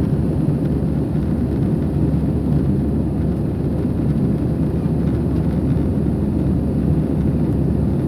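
Steady low drone of an airliner's cabin noise in flight, the engines and rushing air heard from inside the cabin. The drone holds an even level throughout, with no change in pitch.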